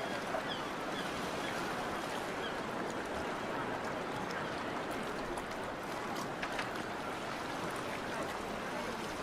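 Steady outdoor harbour ambience of water and wind noise with faint background voices, and a few short high chirps in the first few seconds.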